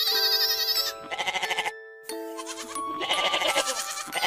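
A young goat bleating: several loud, strongly quavering bleats over light background music.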